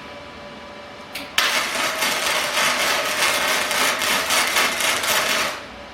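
Primeweld MIG 160 welder running gasless flux-core wire: a brief arc strike about a second in, then a loud, steady crackling arc for about four seconds that stops near the end. The wire speed is a little too slow.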